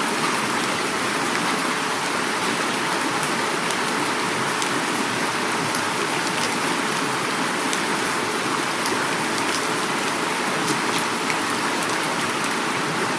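Heavy rain falling steadily, with flowing river water beneath it. Scattered sharp drop ticks stand out over the dense hiss.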